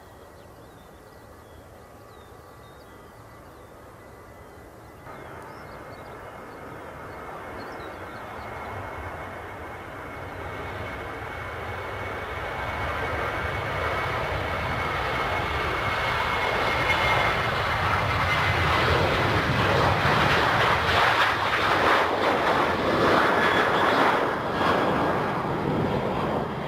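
Jet airliner passing on the runway, its engines a rising roar with a steady whine that drops slightly in pitch as it goes by. The sound grows louder over about twenty seconds and is loudest near the end.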